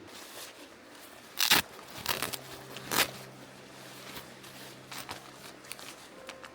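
A few sharp crackles and clicks, the loudest about a second and a half in and again around three seconds, over a faint steady low hum.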